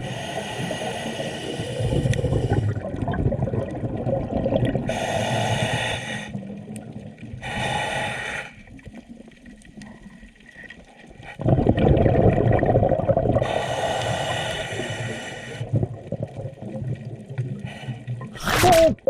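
Scuba diver breathing through a regulator underwater: several hissing inhalations, alternating with rumbling bursts of exhaled bubbles.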